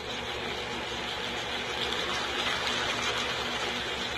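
Chicken pieces sizzling and bubbling in a pan of oily soy-and-vinegar adobo sauce: a steady frying hiss.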